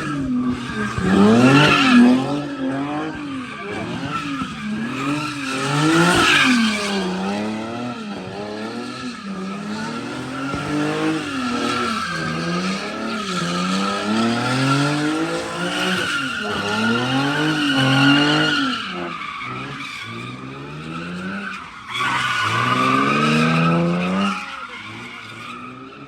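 A car drifting with its tires squealing steadily while the engine revs rise and fall over and over as the throttle is worked. The sound dies away near the end.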